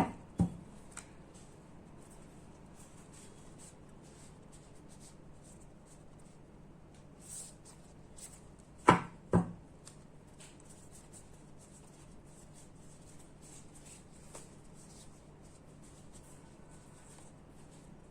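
Tarot cards and their box being handled on a table: a sharp tap soon after the start, then two sharp taps about half a second apart about nine seconds in, over faint rustling and small ticks and a low steady hum.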